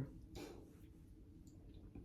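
Near silence: quiet room tone with a few faint small clicks, one near the end.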